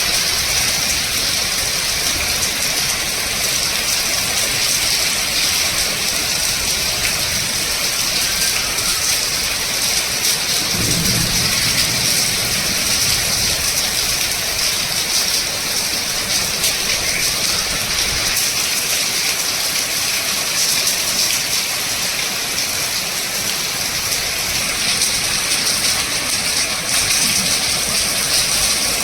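Heavy rain falling, a steady hiss, with a brief low rumble about eleven seconds in.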